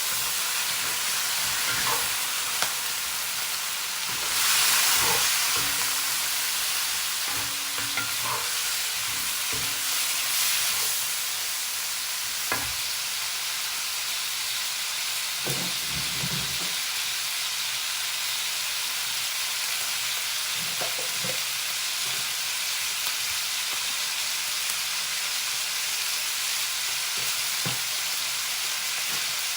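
Food sizzling as it fries in a pan: a steady hiss that swells briefly about four seconds in, with a few scattered clicks and knocks.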